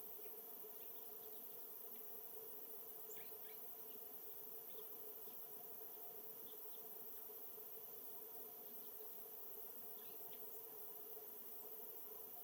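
Faint, scattered short bird chirps and calls, a few sliding downward, over a steady low hum and hiss.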